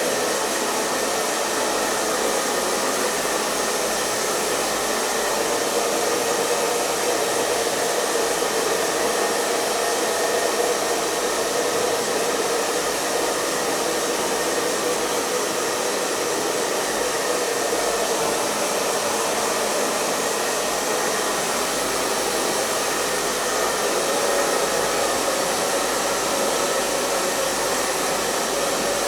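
Hair dryer running continuously: a steady rush of blown air and motor hum at constant speed.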